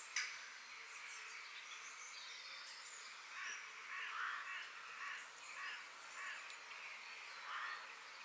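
Forest ambience with a steady high hiss in the background. Small birds chirp high up, and several harsh, caw-like bird calls come in the second half. A single sharp click sounds just after the start.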